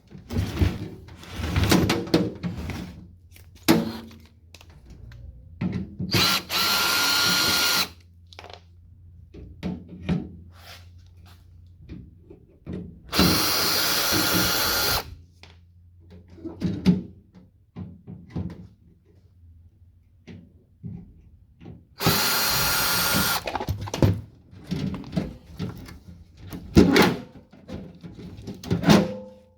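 Power drill running in three steady bursts of about one and a half to two seconds each, with a fixed whine, while a microwave oven is being taken apart. Between the runs there are repeated clanks and knocks of metal parts being handled.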